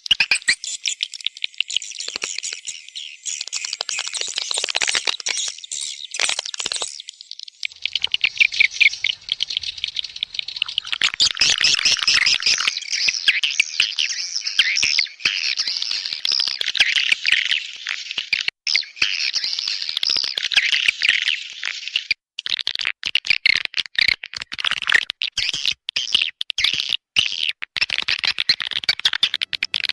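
Swiftlet lure call track: dense, rapid, high-pitched twittering and chattering of swiftlets with many fast clicks, the kind of calling sound played to draw swiftlets into a nesting house. It breaks up with short gaps in the last third.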